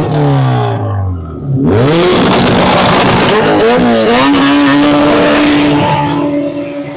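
A modified car engine revving down, then accelerating hard with a loud exhaust, its pitch climbing and settling into a steady drone, then fading as the car drives off.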